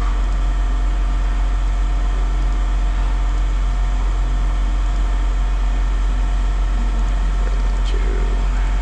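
Steady mechanical hum with a strong low rumble and several steady tones, like a machine or engine running continuously.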